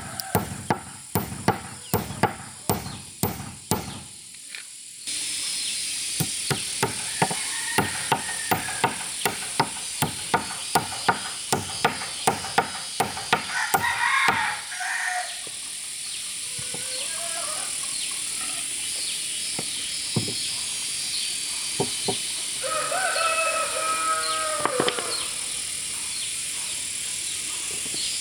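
Repeated blows on wood, about two a second, through roughly the first half. After that a steady high insect drone, with a few short, bending animal calls near the middle and again about three-quarters of the way in.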